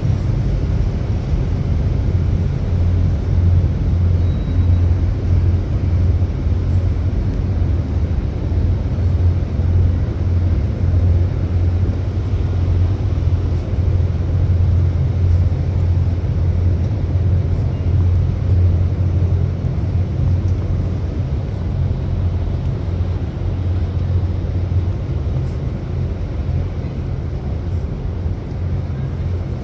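Steady city street traffic: a continuous low rumble of passing vehicles with a hiss of road noise, easing slightly near the end.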